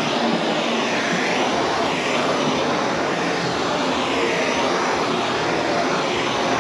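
Heat gun blowing hot air steadily onto vinyl wrap film, its rushing noise wavering in tone about once a second.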